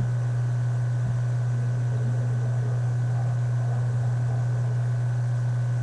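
A steady low hum with hiss, unchanging throughout: the background noise of a webcam recording.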